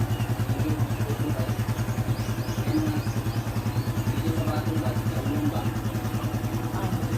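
A small engine running steadily at an even speed, with a fast regular pulsing beat.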